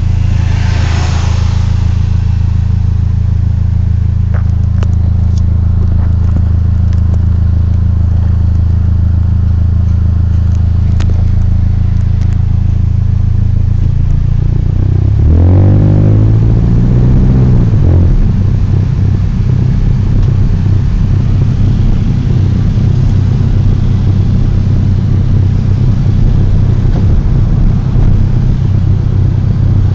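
Car engine idling steadily, revved once about fifteen seconds in, its pitch rising and falling back within about three seconds, then idling rougher. The engine bay gives a strange noise that the owner likens to pigeons cooing, or a ghost.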